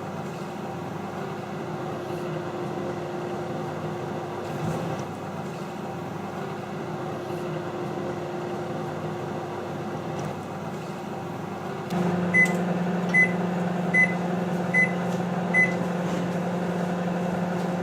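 Microwave oven running on high with a steady hum. About two-thirds of the way in the hum changes and gets louder, then five short high beeps sound about 0.8 s apart, the signal that the cooking time is up.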